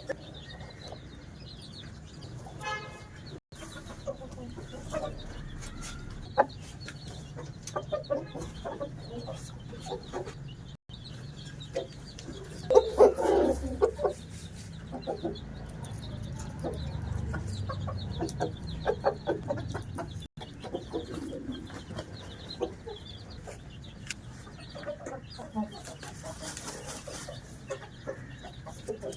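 Aseel chickens clucking, with a louder flurry of calls about thirteen seconds in.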